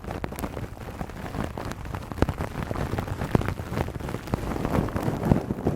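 Scissors snipping over and over in quick, irregular snips.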